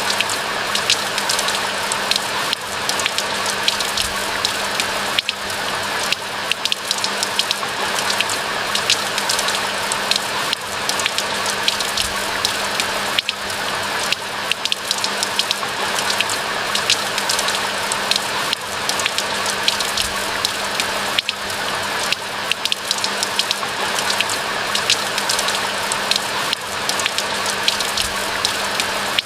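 Steady rain: a dense patter of individual drops over a constant rushing hiss, with no let-up.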